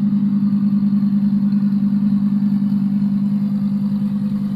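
Audi R8's V10 engine idling steadily, a low, even drone with a fast flutter.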